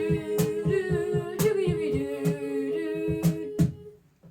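Boys' voices humming a held note over a hummed bass line pulsing about four times a second, with a sharp beat about once a second, as an a cappella song intro. It stops about four seconds in.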